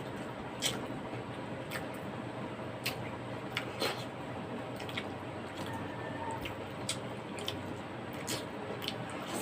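Close-up eating sounds: wet chewing and mouth noises with scattered short clicks, about one a second, over a steady background hum.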